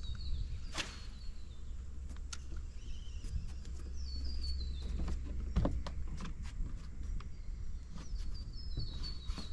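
A bird calls three times, each call a short run of high notes stepping downward, over a low steady rumble. Scattered light clicks and knocks come from the anglers handling their rods and reels on the boat.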